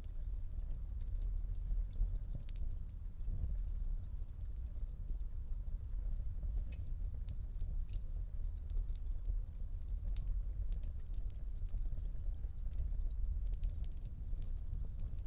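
Wood fire crackling in a fireplace: many small sharp pops and snaps scattered over a steady low rumble of burning flames.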